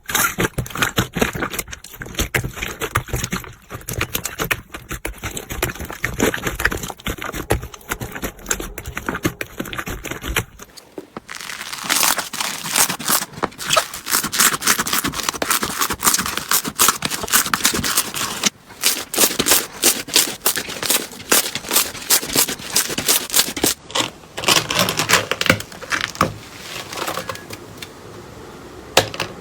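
Slime being squeezed, stretched and pressed by hand, giving a dense run of small clicks and pops. The texture of the clicking changes about eleven seconds in.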